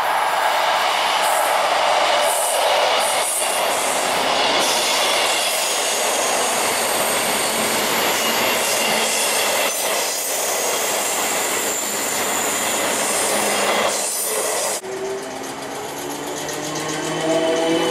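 A South Western Railway electric multiple unit running past close by: steady rush of wheels on rail with thin high wheel squeal, cutting off sharply about fifteen seconds in as the last coach clears. Then a second electric unit approaches, its traction motors giving a steadily rising whine as it accelerates.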